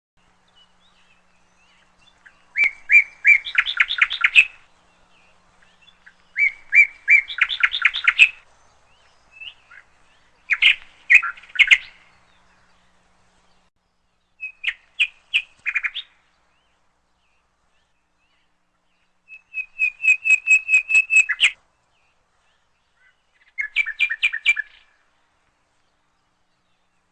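A bird calling in six bouts of rapid, repeated notes, each bout lasting one to two seconds, with pauses of a few seconds between them.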